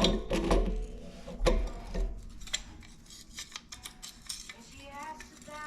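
Irregular metallic clinks and knocks from handling metal tools and fittings, a few strikes ringing briefly, the loudest at the start and about one and a half seconds in.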